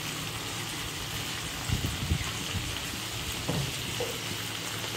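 Chicken pieces sizzling in hot mustard oil in a frying pan, a steady hiss, with a few soft low thumps about two seconds in and again near three and a half seconds.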